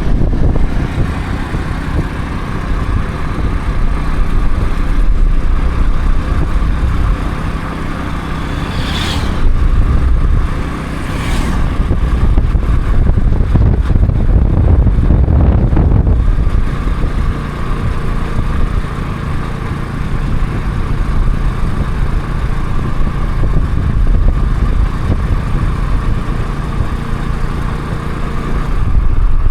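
A motor vehicle engine running steadily, with two brief sweeping sounds about nine and eleven seconds in.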